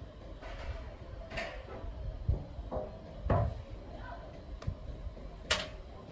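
Tools and parts being handled during repair work on a two-stroke engine cultivator: several scattered clicks and knocks, the sharpest near the end, over a low rumble.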